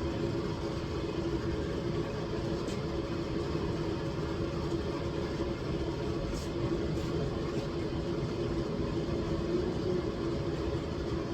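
A steady mechanical hum with constant pitch, with a few faint clicks.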